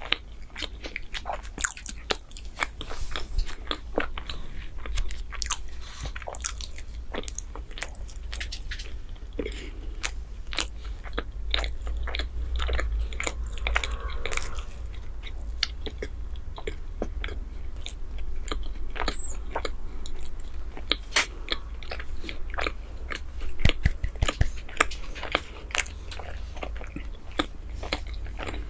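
Close-miked ASMR eating sounds: a person chewing soft chocolate bread, giving a dense, irregular run of wet mouth clicks and smacks.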